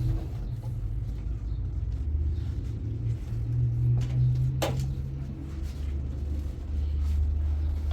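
A steady low rumble that grows stronger for a couple of seconds from about three seconds in, with a single sharp click about four and a half seconds in.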